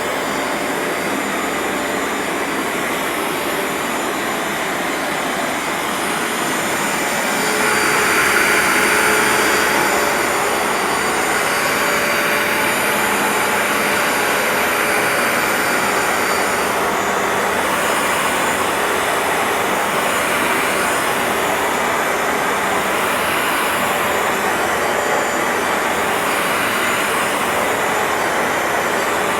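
Bissell ProHeat 2X upright carpet cleaner running, its motor and suction making a steady drone with a high whine on top. It swells louder and brighter about eight seconds in, then settles back to a steady run.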